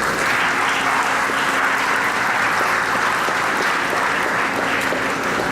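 Audience applauding steadily, a dense patter of many hands clapping, easing slightly near the end.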